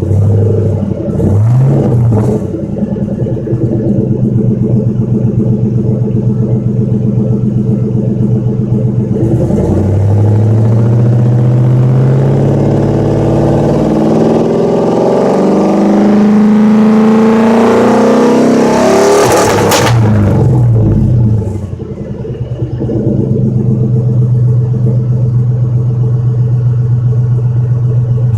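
2003 Ford F-150's 4.6-litre V8 through a 26-inch Cherry Bomb glasspack exhaust, otherwise stock. It idles, is blipped twice near the start, then revved in one long rise lasting about ten seconds before the throttle is dropped and it falls suddenly back to a steady idle.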